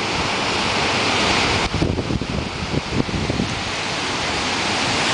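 Waterfall's rushing water, a loud steady roar of spray, with wind buffeting the microphone; the hiss dips briefly about two seconds in.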